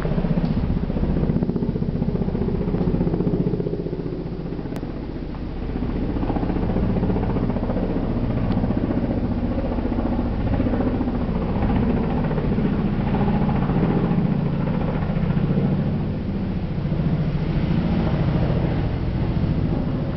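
Helicopter flying overhead: a steady, rapid beating of the rotor blades over the engine's whine, dipping slightly about five seconds in before rising again.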